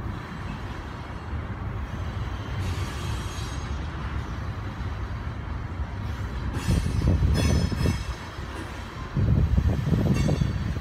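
Coal train's loaded-or-empty open-top coal cars rolling past on steel rails: a steady low rumble of wheels and trucks. Louder passages come about seven and nine seconds in, with a thin high squeal riding over them.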